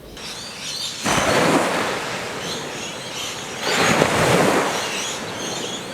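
Ocean waves breaking on a beach: a steady wash of surf that swells twice, about a second in and again around four seconds in, with faint high chirps above it.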